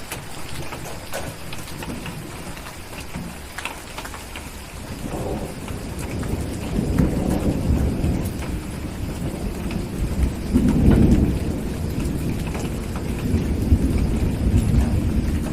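Steady rain with a few sharp fireplace crackles in the first few seconds. A long deep rumble of thunder then builds about five seconds in, swells loudest around eleven seconds, and keeps rolling.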